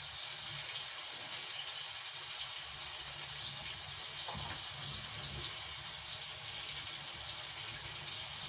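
Fava beans with onion and tomato sizzling in a frying pan: a steady, even hiss.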